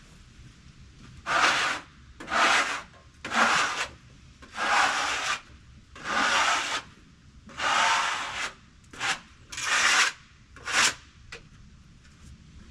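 About nine rough scraping or brushing strokes, each under a second and separated by short pauses, stopping about a second before the end.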